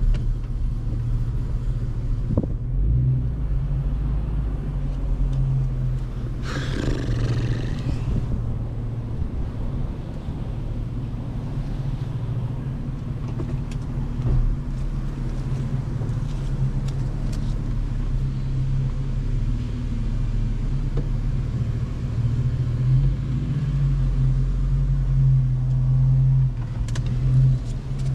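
Car engine running at low, steady revs while driving. A brief rush of noise comes about six and a half seconds in.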